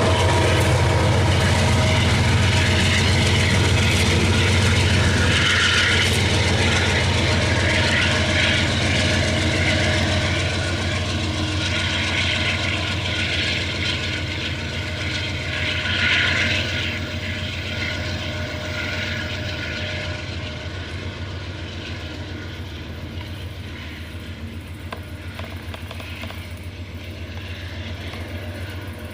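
Loaded iron-ore freight train rolling past and moving away, a steady low drone with rumbling wheel noise that fades gradually.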